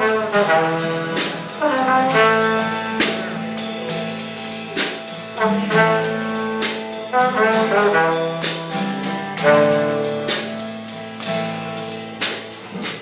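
Live band playing an instrumental number: a held, moving melody line over a steady drum-kit beat with regular cymbal hits.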